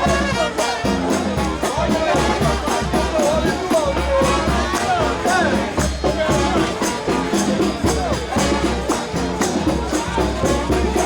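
New Orleans brass band playing second-line parade music: horns over a steady, driving drumbeat, with crowd voices mixed in.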